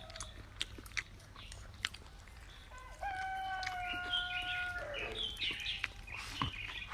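A rooster crowing once, a long held call starting about three seconds in and dropping in pitch as it ends.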